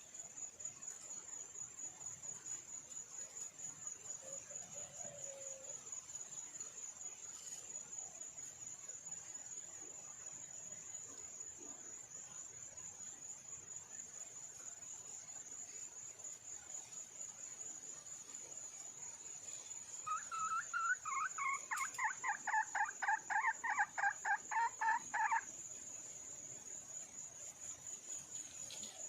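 A steady high insect trill runs throughout. About two-thirds of the way in, a junglefowl hen gives a quick run of repeated calls lasting about five seconds, louder than the trill.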